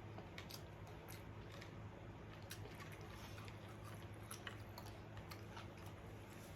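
A person chewing food close to the microphone: scattered short, sharp crunches and mouth clicks over a steady low hum.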